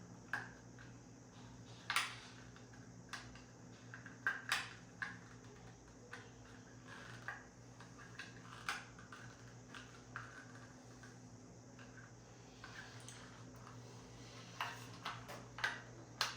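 Scattered small plastic clicks and taps, about one every second or two with a quicker cluster near the end, from handling a wireless LED light switch while prying its buttons off.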